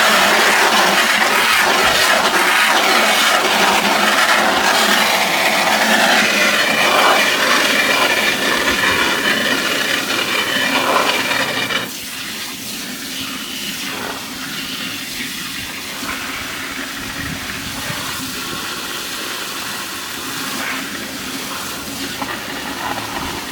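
Water spraying steadily onto a truck as it is washed. It gets noticeably quieter about halfway through and carries on steadily.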